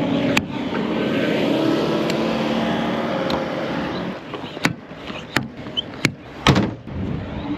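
DAF semi-truck running, heard from inside the cab as a steady drone for about four seconds, then dropping away, followed by several sharp clicks and knocks.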